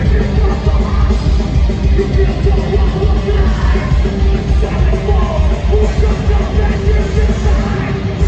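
Heavy metal band playing live, loud and distorted, with fast pounding drums and screamed vocals.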